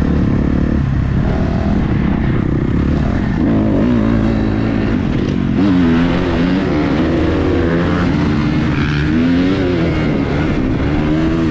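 Dirt bike engine running as the bike is ridden, its pitch rising and falling with the throttle.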